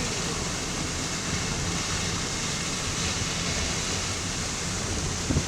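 Steady rushing noise of strong storm wind buffeting the microphone, with rain, heaviest at the low end. A brief knock comes near the end.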